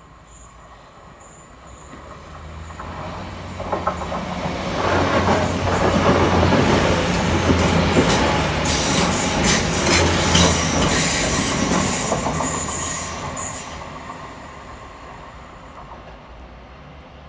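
Passenger train approaching and passing at speed: a rumble that builds to loud, with rapid clicks of wheels over the rails at its loudest, then fades away.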